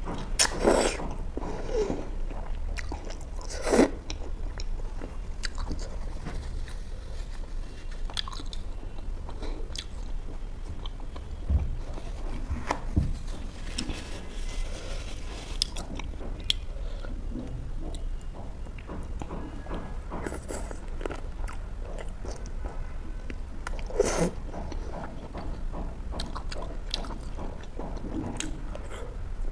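A person biting and chewing saucy butter chicken, with wet mouth sounds and scattered sharp clicks; the strongest come about a second in, near four seconds and near twenty-four seconds. A low steady hum runs underneath.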